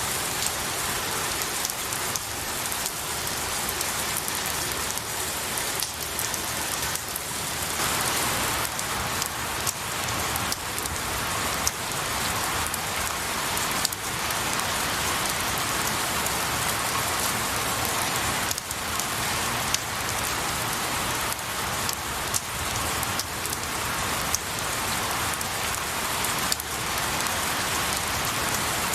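Steady rain falling on pine needles and trees, an even hiss with many separate drops ticking through it.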